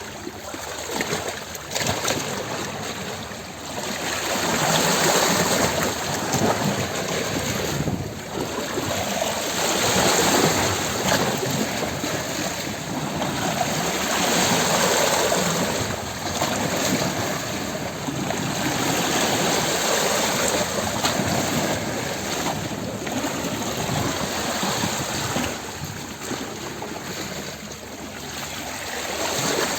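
Rushing water, a steady wash that swells and eases every four to five seconds.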